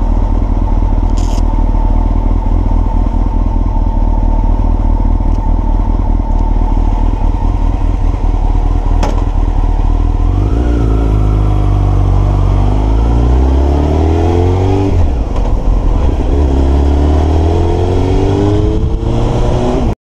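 Honda CBR929RR's inline-four engine idles steadily for about ten seconds, then pulls away. The revs climb, drop at a gear change, and climb again.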